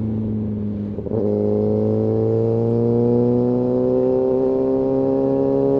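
Kawasaki ZX-6R's inline-four engine heard from the rider's seat, holding a steady note, then briefly dropping off about a second in before pulling again with a slowly rising pitch as the bike accelerates.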